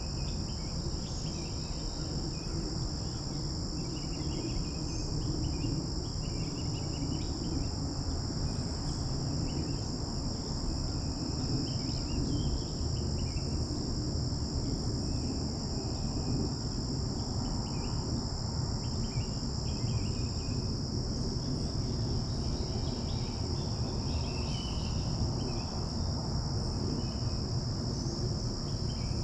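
Steady high-pitched insect trilling in two continuous tones, the higher one stopping about two-thirds of the way through. Scattered short chirps sit above a steady low rumble.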